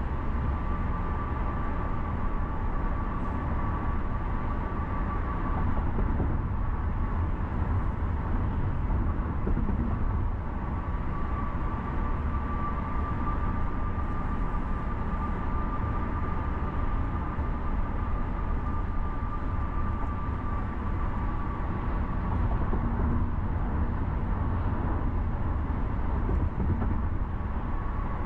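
Car driving on a city road: steady low road and engine rumble with tyre noise, and a thin high whine that fades out for a few seconds and comes back.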